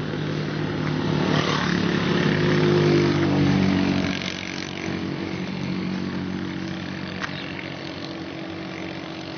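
A motor vehicle's engine running steadily. It grows louder about three seconds in, then eases off and carries on at a lower level, as a vehicle passing close by would.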